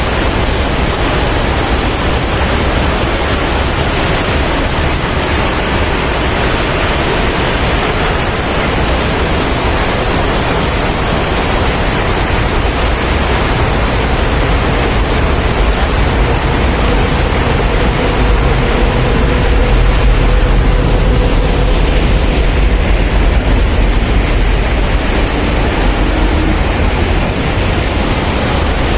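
Steady rush of water falling from the Dubai Water Canal's waterfalls, with a deep rumble underneath, swelling slightly past the middle.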